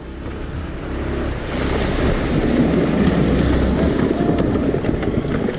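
Motorcycle riding through a shallow river: water churning and splashing around the bike over the running engine, growing louder about a second and a half in, with wind buffeting the microphone.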